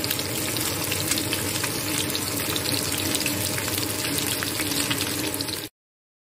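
Spice-coated fish pieces sizzling as they shallow-fry in hot oil in a pan: a steady hiss with frequent small crackles, cut off suddenly near the end.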